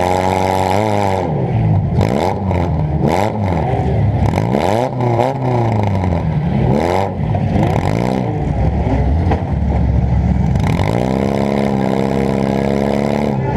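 Demolition derby car's engine revving hard, rising and falling again and again, heard from inside the car. Sharp knocks and clatter come through in the first half, and the engine holds higher and steadier near the end.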